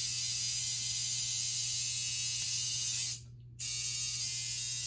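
Tattoo machine buzzing steadily, cutting out for about half a second a little after three seconds in.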